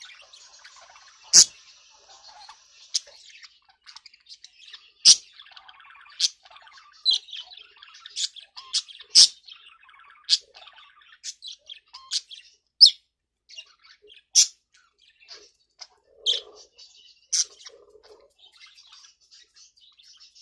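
Budgerigars (budgie parakeets) chirping: loud, sharp, high chirps about once a second over soft, continuous twittering chatter.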